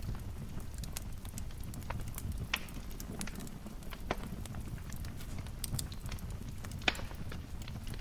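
Wood fire crackling in a fireplace: irregular sharp pops and snaps over a low steady rumble, the loudest pop near the end.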